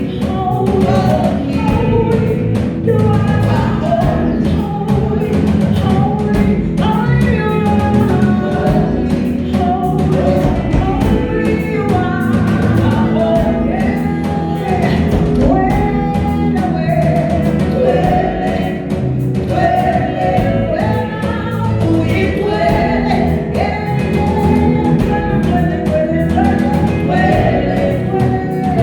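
Gospel worship music: a group of voices singing together over a band with steady drums and bass.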